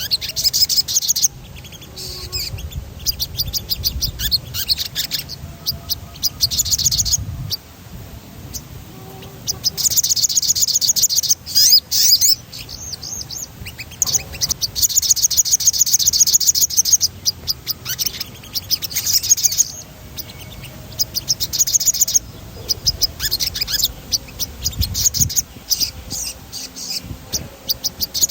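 A sogon songbird singing in full voice, in rolling trills: runs of very fast, high repeated notes lasting from one to several seconds, with short pauses between them.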